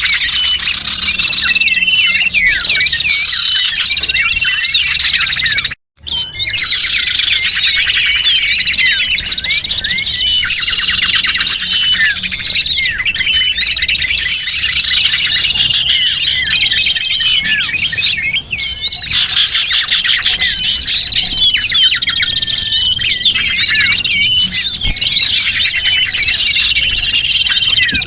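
Dense chorus of small birds chirping and twittering in rapid, overlapping trills: a recorded lure call used to draw small wild birds in. It cuts out for a split second about six seconds in, then resumes.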